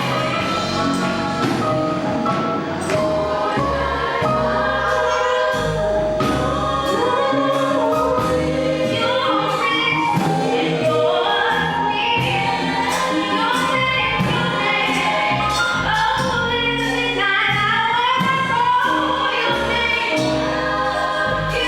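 Gospel choir singing with a live band, a steady bass and drum beat under the voices.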